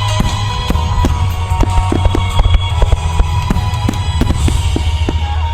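Loud music with a heavy drum beat playing over a fireworks display, with many firework bursts banging and crackling through it.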